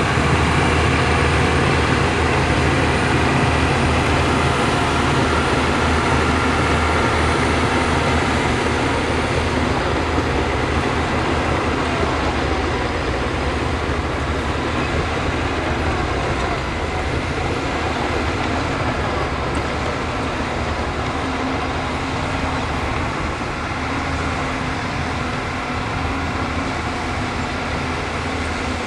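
Heavy diesel engine of construction machinery running steadily, slowly easing a little in loudness.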